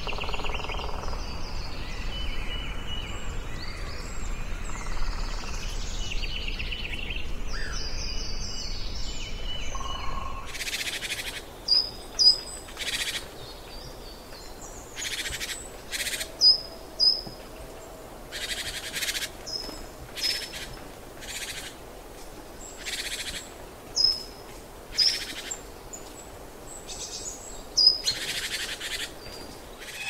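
Birds calling. At first there is a steady low rumbling ambience with scattered faint bird calls. From about ten seconds in come repeated harsh calls, one to two seconds apart, mixed with short high chirps.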